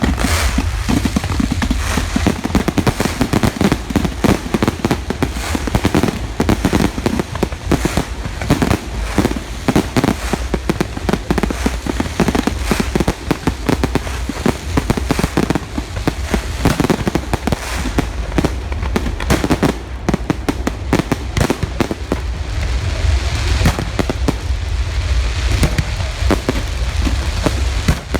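Large fireworks display: a dense, continuous barrage of shell bursts and crackle with deep booms, rapid sharp reports overlapping the whole time.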